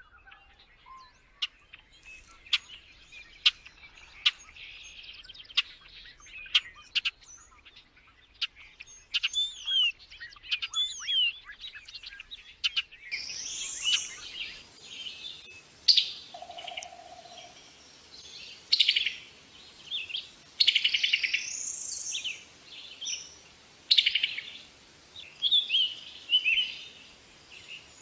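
Small songbirds chirping and singing. The first half holds sharp chips and short whistled notes; about halfway through the recording changes to louder song phrases with buzzy trills and rising notes.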